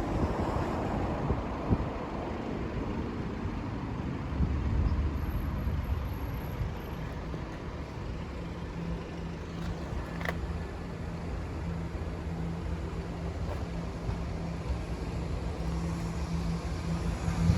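A motor vehicle running at a steady low pitch, growing slightly louder near the end, with wind and rumble on the microphone in the first few seconds.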